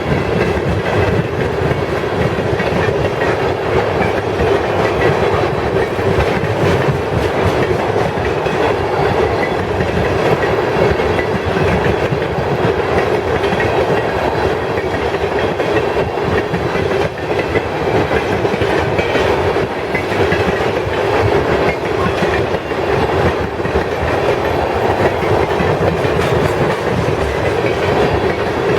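Freight train cars rolling steadily past, wheels clacking over the rails.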